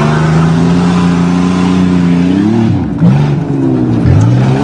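A car or truck engine running hard under load, its pitch holding steady, then dropping sharply and climbing again about three seconds in and once more near the end.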